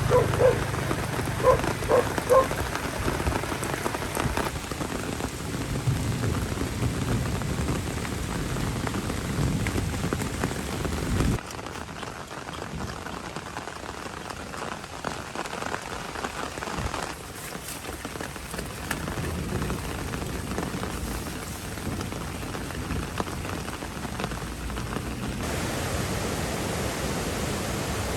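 Steady rain falling, a continuous hiss of drops on surfaces; its level and tone change abruptly several times.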